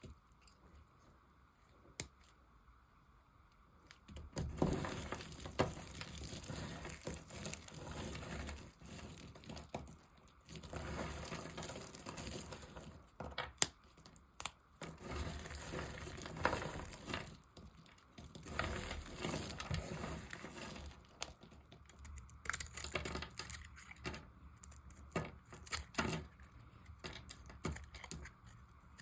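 A knife carving dry soap: crisp scraping and crumbling in stretches of a few seconds with short pauses, starting about four seconds in. Sharp clicks come in between, where bits of soap snap off.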